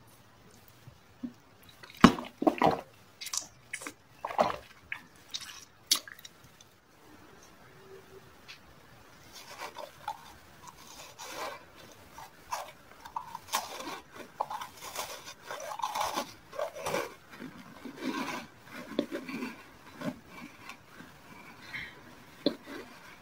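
Eating sounds from a mouth: a few sharp crunchy bites in the first six seconds, then about a dozen seconds of continuous, rapid chewing of a crumbly biscuit-like pastry.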